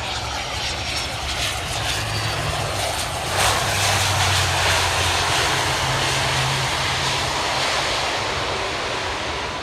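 Airplane engines running with a loud, steady noise and a low hum beneath it, swelling about three and a half seconds in.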